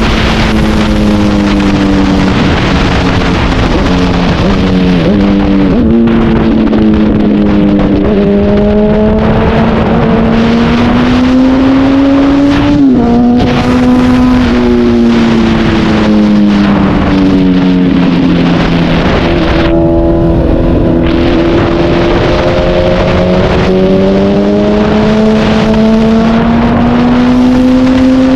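Honda CBR1000RR's inline-four engine running under way, its pitch rising and falling gently with the throttle. There are a few quick steps in pitch around four to five seconds in and a sharp drop about thirteen seconds in as it shifts up a gear, with wind noise on the microphone.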